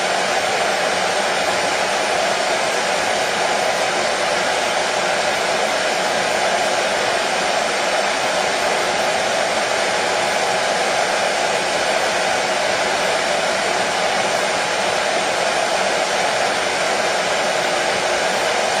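Hair dryer blowing steadily: a constant, even whoosh of fan and air with a slight hum, unchanging throughout.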